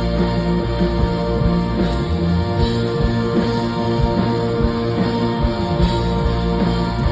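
A live band playing an instrumental passage of a rock-tinged pop song, with electric guitar over held chords and drums. The deep bass drops away for a few seconds in the middle, then comes back.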